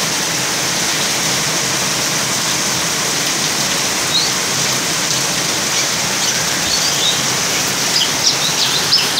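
Heavy rain falling steadily. A bird gives a few short high chirps about four seconds in, and more near the end.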